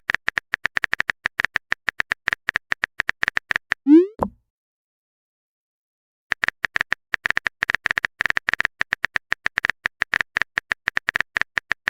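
Chat-app typing sound effect: rapid clicks, roughly nine a second, as a message is typed out, then a short rising pop as the message is sent. After a pause of about two seconds, the typing clicks start again.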